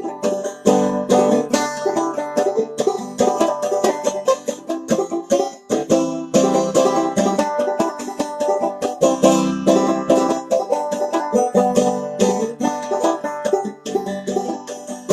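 Five-string banjo played clawhammer style in open G tuning: an instrumental break of quick, driving plucked notes with a steady old-time rhythm.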